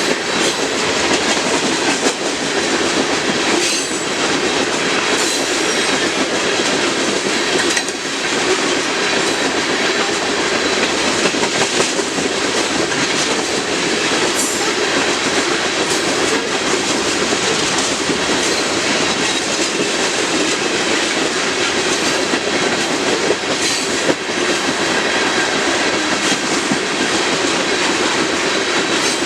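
Freight cars of a Union Pacific rock train rolling past at speed: a steady rumble of steel wheels on rail, with occasional sharp clicks as the wheels cross rail joints and a faint high wheel squeal.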